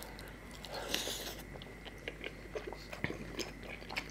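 Close-miked biting and chewing of a curry-soaked piece of puri: a wet bite about a second in, then many small sticky mouth clicks as it is chewed.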